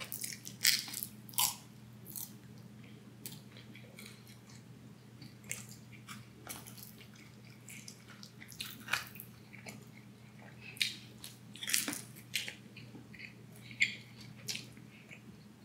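A person biting and chewing pizza close to the microphone: irregular sharp mouth clicks, loudest about a second in and again around nine, twelve and fourteen seconds in, over a faint steady low hum.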